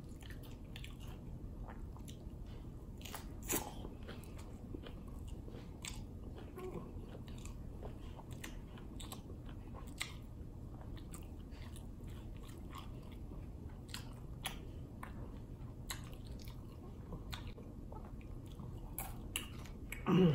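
A person chewing crunchy hard-shell tacos close to the microphone, with scattered small crunches of the shell and one louder crunch about three and a half seconds in. A brief louder sound comes right at the end.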